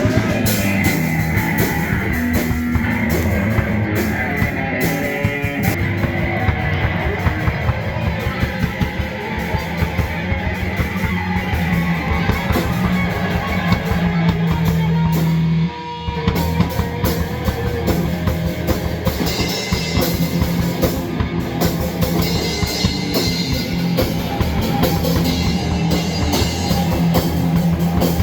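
Loud rock music with a drum kit and guitar playing continuously, with a brief break about halfway through.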